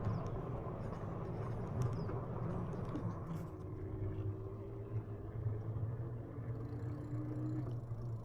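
Steady rumble of riding an e-bike on a trail, with wind and tyre noise. A faint steady whine joins about four seconds in and fades shortly before the end.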